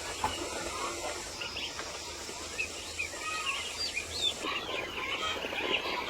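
Many short, high bird chirps over a steady outdoor background hiss, growing busier from about halfway through.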